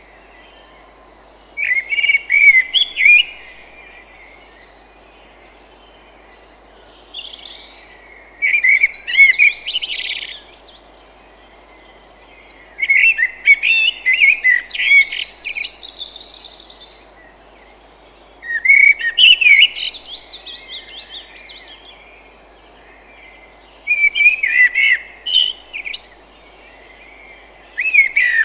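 A songbird singing: bursts of quick, sliding chirping notes about two seconds long, repeated roughly every five seconds, over a steady background hiss.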